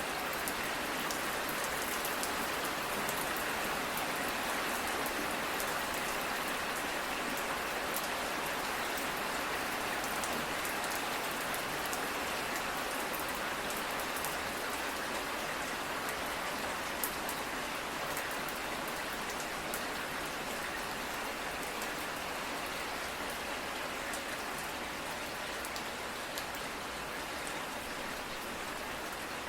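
Steady rain falling, a dense even hiss with many small drop taps, easing slightly near the end.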